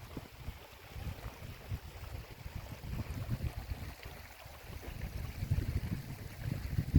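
Wind buffeting the microphone: an irregular low rumble that swells and fades in gusts, strongest in the second half.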